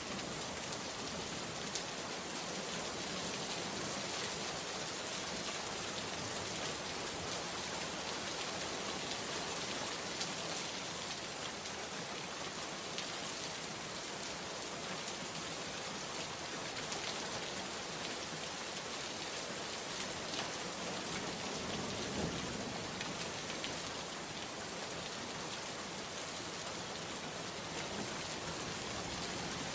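Steady rain falling on a surface, with now and then a single louder drop ticking. A brief low rumble swells a little past two-thirds of the way through.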